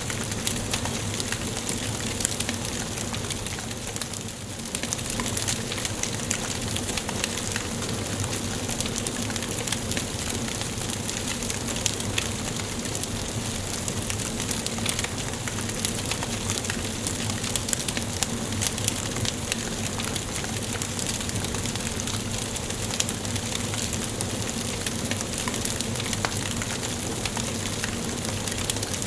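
Wood fire burning in a fireplace: a steady hiss with frequent sharp crackles and pops from the burning logs, briefly softer about four seconds in.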